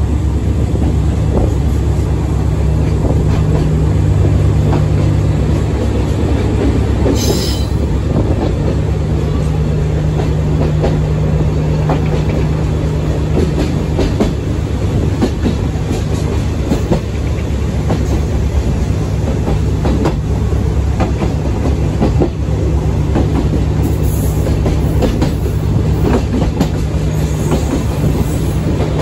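Sagano Romantic Train running, heard from aboard: a steady rumble with the wheels clattering over rail joints, and a brief high wheel squeal about seven seconds in.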